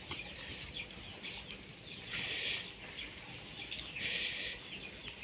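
Two short bird calls, about two seconds in and again about four seconds in, each lasting about half a second, over a faint outdoor background with a few light ticks.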